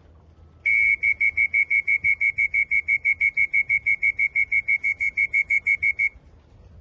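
Electronic pigeon-race timing system at the loft trap beeping rapidly, a single high tone pulsed about six times a second for around five seconds, as returning racing pigeons clock in. The beeping starts about a second in and stops suddenly near the end.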